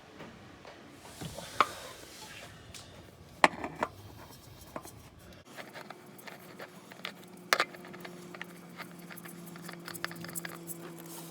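Scattered clicks, light knocks and scrapes of a new oil filter and tools being handled while the filter is fitted during an oil change, with a few sharp clinks standing out.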